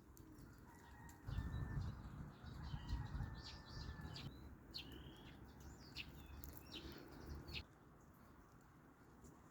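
Garden birds chirping in short, scattered high calls. A louder low rumble runs under them from about a second in until near the end.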